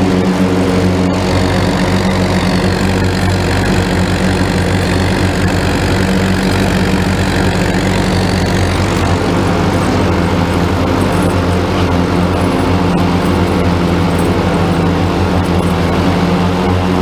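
Cummins four-cylinder turbo diesel in a Farmall M tractor running steadily under load while driving a PTO-powered rotary mower.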